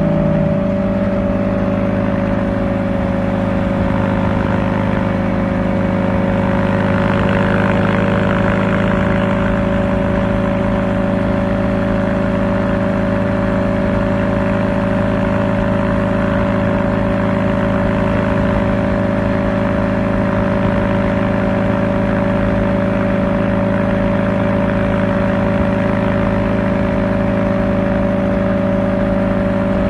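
Kawasaki Ninja ZX-4R inline-four engine with an Akrapovic exhaust, cruising at a steady engine speed. It makes a constant drone that holds the same pitch throughout after settling in the first couple of seconds.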